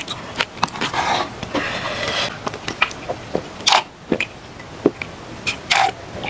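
Close-miked chewing and wet mouth clicks of a long, chewy strip of braised kimchi being eaten, with sharp smacks scattered throughout.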